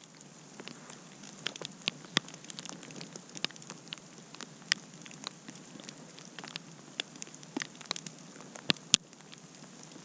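Campfire crackling: a steady hiss with many sharp pops and snaps scattered irregularly, a few of them loud.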